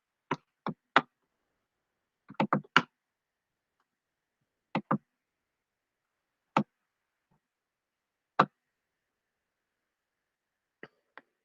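Scattered short clicks and taps of a computer mouse and keyboard, about a dozen, some in quick clusters, with dead silence between them.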